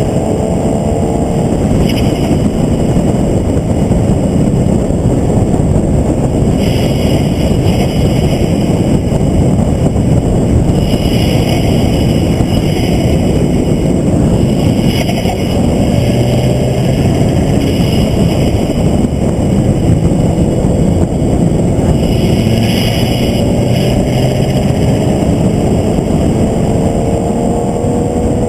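Onboard sound of a vehicle lapping a race track at speed: loud, steady wind and road noise, with the engine's pitch rising under acceleration at the start and again over the last few seconds.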